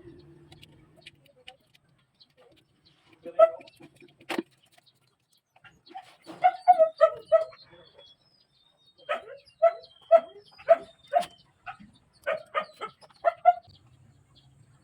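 A dog barking in several quick volleys of short barks, with a single sharp click about four seconds in.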